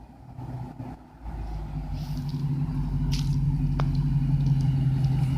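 Dodge Charger's 5.7L Hemi V8 exhaust through Flowmaster Super 44 mufflers: a steady low engine note that comes in about a second in and grows steadily louder as the car approaches.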